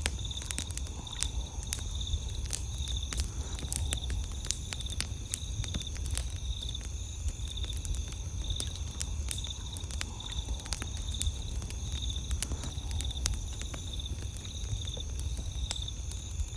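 Campfire crackling with frequent sharp pops, over steady night insects chirping in an even, rapid pulse and a low rumble underneath.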